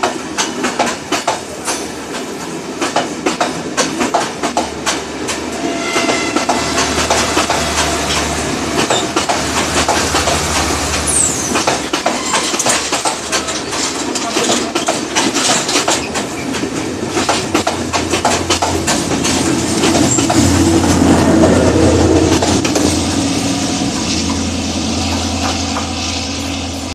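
Passenger train carriages rolling past at close range, the wheels clattering rapidly over the rail joints. Near the end the clatter thins out and a low steady drone swells, loudest about 21 seconds in.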